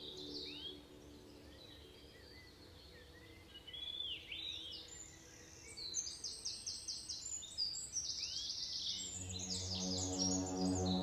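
Birds calling: short upward-sweeping chirps, then quick rapid runs of high repeated notes. Soft ambient music fades out about half a second in and swells back in near the end.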